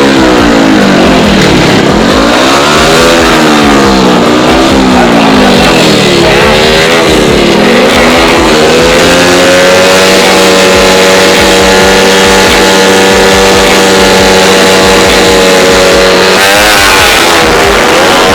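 Tuned 110 cc four-stroke racing motorcycle engines with open racing exhausts, revved up and down again and again, then held at a steady high rpm for several seconds, with a change in the engine note near the end.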